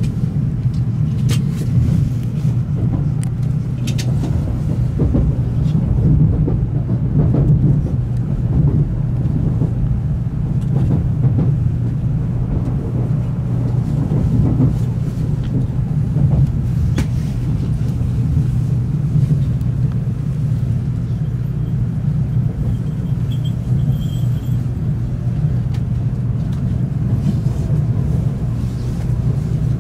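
Moving Shinkansen train, a steady low rumble with a few faint clicks.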